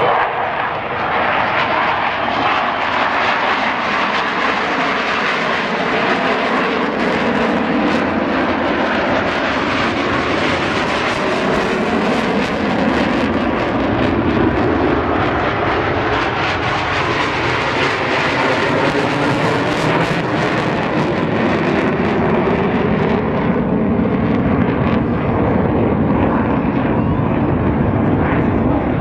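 Jet engines of the Black Eagles aerobatic team's aircraft, a loud, continuous jet noise that swells and eases with slowly sliding pitch as the planes fly past.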